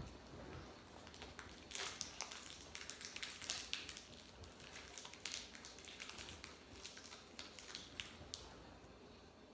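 A crunchy Nature Valley granola bar in its wrapper being handled and broken, giving irregular crackling and crunching. It is densest from about two to five seconds in and thins out near the end.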